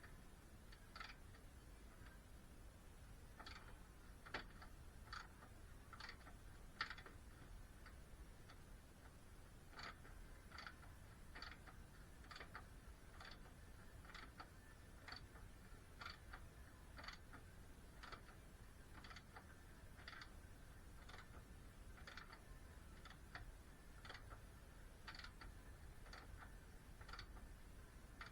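Faint, regular ticking, about three ticks every two seconds, over near silence.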